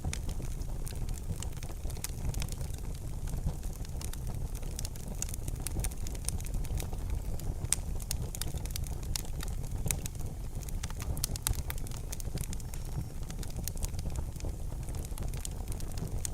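Wood fire burning in a fireplace: frequent sharp crackles and pops at irregular moments over a steady low rumble.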